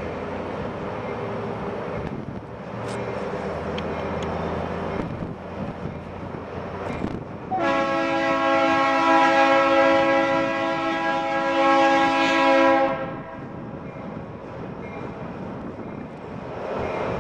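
Diesel locomotives of a coal train running, a steady engine drone, then a train horn sounding one long chord of several notes for about five seconds, starting about seven and a half seconds in. The train's rumble carries on after the horn stops.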